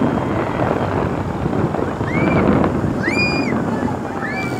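Fireworks display: a continuous crackling rumble of many bursts. Over the second half, three high whistling tones rise, hold and fall, along with faint crowd voices.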